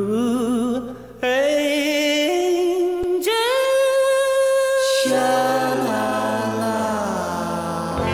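Background music: a singer holds long, wavering notes that step upward to one long high note about halfway through, then fall away.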